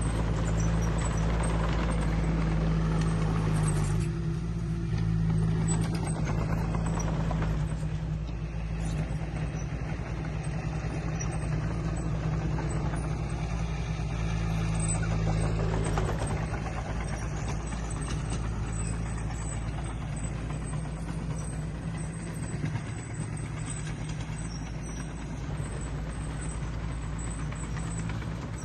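Diesel engine of heavy earthmoving machinery running steadily with a low drone, its pitch shifting slightly now and then.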